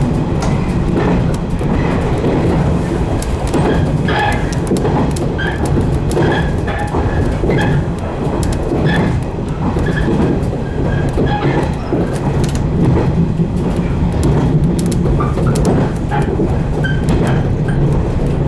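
Running noise of a 115-series electric multiple unit train under way: a steady, loud rumble of wheels on rail and running gear, with brief high squeaks now and then.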